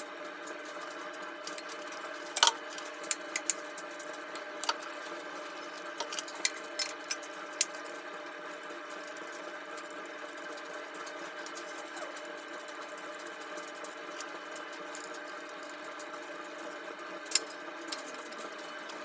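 Scattered light clicks and taps of small objects being handled over a steady background hum, with one louder knock about two seconds in and another near the end.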